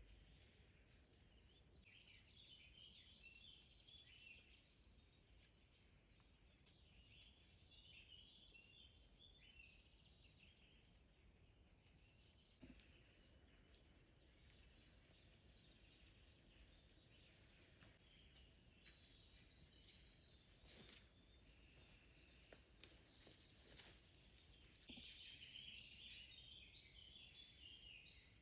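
Faint songbird chirps and trills, many short calls in a quiet forest, with a few soft clicks in the second half.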